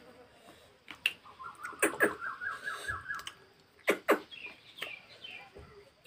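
A bird calling: a quick run of about ten short, even notes lasting about two seconds, then a few higher chirps. Several sharp clicks or knocks, the loudest sounds, come about a second in, around two seconds in and around four seconds in.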